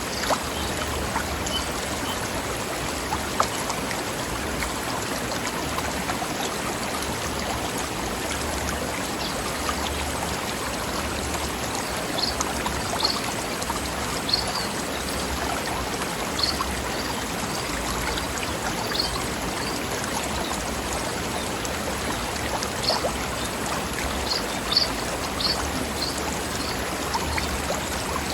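Forest stream flowing over rocks: a steady, even rush and babble of water, with brief sharper splashes and small high-pitched plinks here and there, more of them in the second half.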